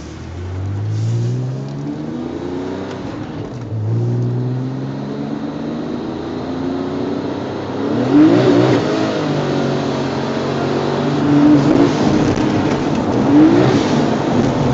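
Twin-turbo Porsche 911's flat-six engine accelerating hard through the gears: the pitch climbs, drops at a shift about four seconds in, and climbs again. From about eight seconds in the revs rise and fall repeatedly, with several sharp loud peaks.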